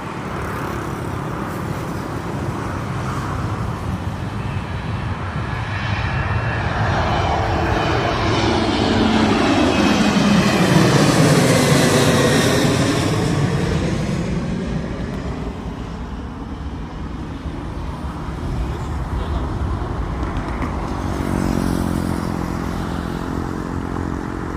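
Boeing 737-800 jet airliner with CFM56 turbofan engines passing close by: the engine roar builds to a peak about eleven seconds in, sweeping down in pitch and back up as it goes past, then fades.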